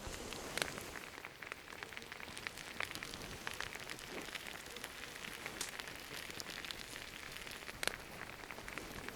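Campfire crackling over a steady hiss, with scattered sharp pops; two louder pops come shortly after the start and near the end.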